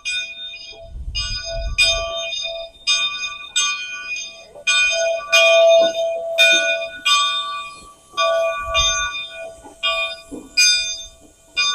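Steam locomotive's bell ringing over and over, about two strokes a second, each stroke ringing on.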